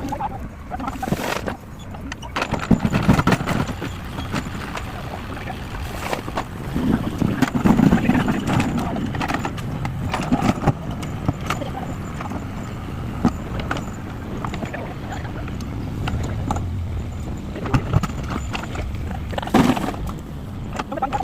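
Cat 424B2 backhoe loader's engine running under load as it loads hard material into a tractor trolley, with the clatter of the material and a few sharp knocks about a second in, about six seconds in and near the end.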